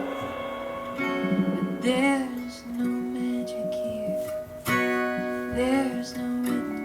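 Live folk band playing an instrumental passage led by strummed acoustic guitar, with sustained notes, a few of which slide up and down in pitch.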